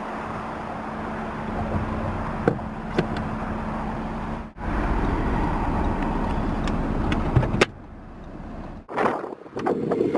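Audi RS Q3's turbocharged five-cylinder engine running steadily at idle, with a few sharp clicks and knocks over it. It goes quieter after a sharp knock near the end.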